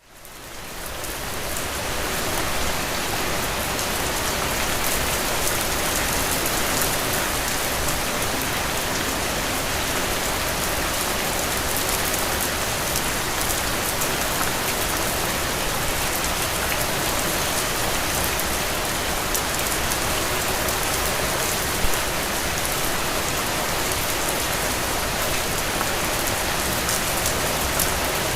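Steady rain falling, an even hiss with fine ticks of individual drops. It swells up from a brief dropout in the first couple of seconds, then holds level.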